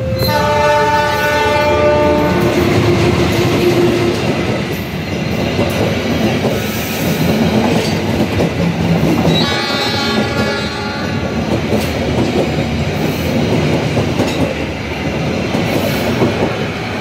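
Passenger train behind a diesel locomotive passing close by, its wheels rumbling and clattering on the rails. A horn sounds just after the start and again about nine and a half seconds in.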